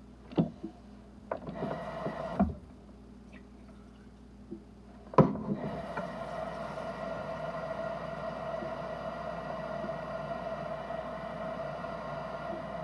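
A few knocks and clicks of handling, then a sharp clunk about five seconds in as a tap is turned on, and water running steadily with a steady tone in it, filling a watering pot.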